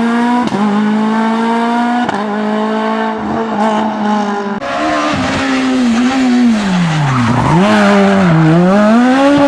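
S1600 rally car's high-revving 1.6-litre four-cylinder engine held near the top of its revs with short dips at the gearshifts; about halfway through, the revs drop sharply through downshifts under braking, then climb, dip and climb again as the car accelerates, with tyre noise.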